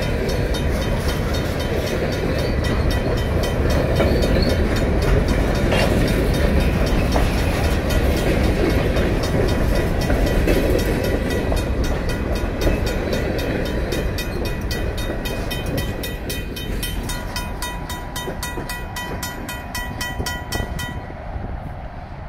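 Freight train of covered hopper cars rolling past a grade crossing with a steady heavy rumble, which fades over the last several seconds as the end of the train goes by. Over it the crossing's mechanical bell rings in rapid, evenly spaced strokes and stops suddenly about 21 seconds in.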